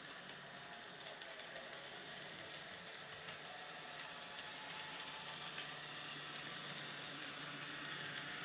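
N gauge model train running round a layout: a faint, steady running noise with scattered small clicks, like wheels over rail joints, that slowly grows louder as it comes nearer.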